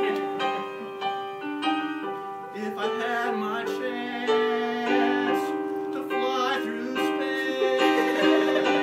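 Piano playing a song's introduction: held chords changing about once a second.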